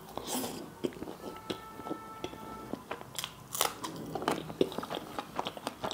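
Close-miked eating: a person biting into and chewing a mouthful of flatbread with curry, full of small wet mouth clicks and smacks.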